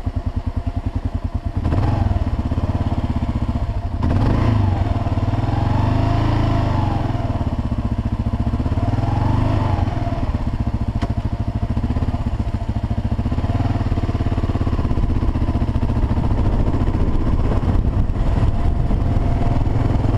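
Kawasaki KLR650's single-cylinder four-stroke engine idling with an even pulse, then pulling away about a second and a half in. Its pitch then rises and falls again and again with the throttle as the bike rides on.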